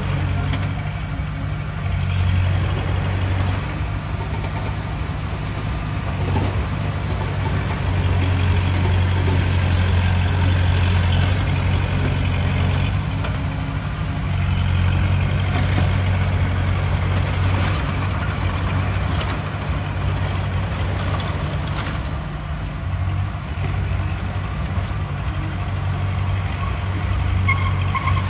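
Heavy diesel engine of earthmoving machinery running under load. Its low drone swells and eases every few seconds.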